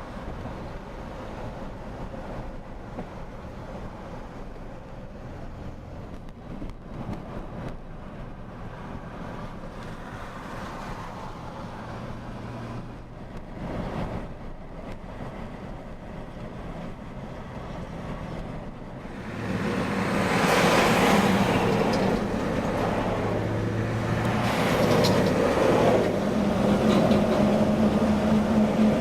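Vehicle engine noise, a steady low hum that grows much louder about two-thirds of the way through, ending with a steady low drone.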